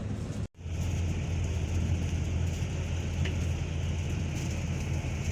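Steady vehicle running noise, a low engine hum with road noise. It breaks off for an instant about half a second in, at an edit cut, then carries on unchanged.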